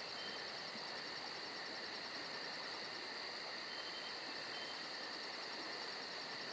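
Insects chirping: a very high, rapid pulsing, about four pulses a second, over a steady hiss, with the pulsing stopping about five seconds in.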